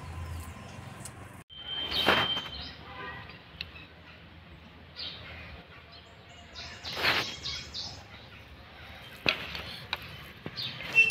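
Small birds chirping and calling in the background, with short high trills and single whistled notes. Two louder brief noisy sounds stand out, about two and seven seconds in.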